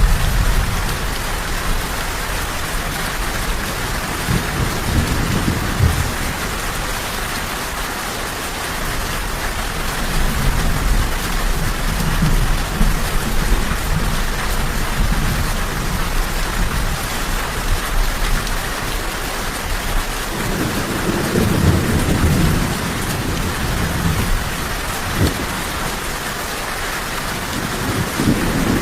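Steady, heavy rain falling as an even hiss, with low rolls of distant thunder swelling and fading several times.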